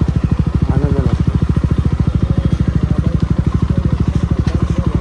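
Jawa 42 Bobber's single-cylinder engine running steadily at low revs, an even, unchanging thudding beat from the exhaust.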